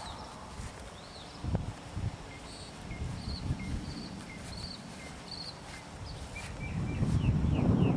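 A songbird repeating a short high chirp about twice a second, over a low wind rumble on the microphone that grows louder near the end. There is a single knock about one and a half seconds in.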